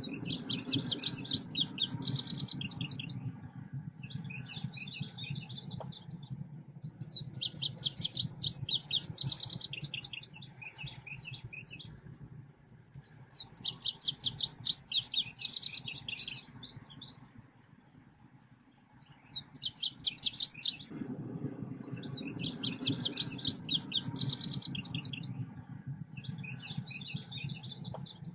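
Song of the selendang biru bird as played on a lure recording: bursts of rapid, high, chattering trilled notes lasting two to three seconds, repeating about every six seconds, with softer scattered notes between them. A low hum lies underneath and drops out briefly in the second half.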